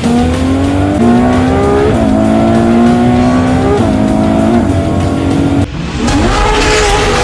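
High-revving car engine accelerating through the gears, its pitch climbing and dipping at each upshift. Near the end it cuts suddenly to another car engine revving up.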